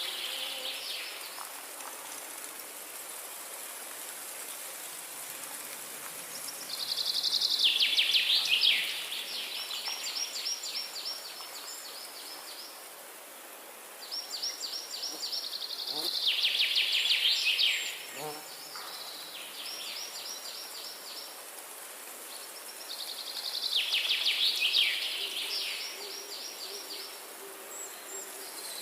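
A songbird singing long phrases of rapid repeated notes, three times with pauses between, over a steady forest background hiss.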